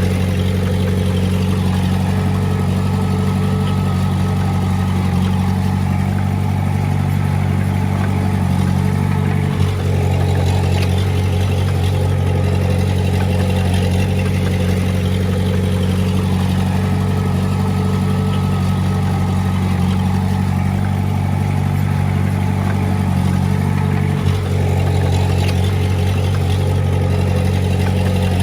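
Heavy-equipment diesel engine running steadily at a constant speed, with two brief dips in sound, one about a third of the way in and one near the end.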